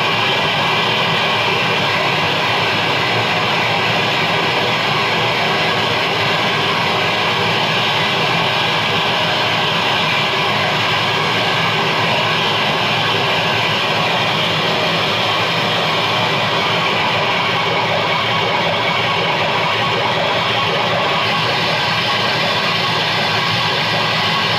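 Keyboard played through a guitar amp as a dense, distorted noise drone: a steady, unbroken wall of sound with faint held tones inside it.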